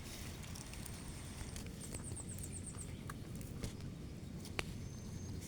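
Outdoor ambience: a steady low rumble of breeze on the microphone, with faint high-pitched chirps and a short rapid trill from small creatures, and a sharp click a little before the end.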